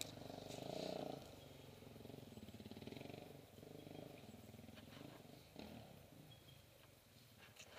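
Kawasaki KLX450's single-cylinder four-stroke engine idling quietly with an even beat. It is a little louder for the first second, then settles lower.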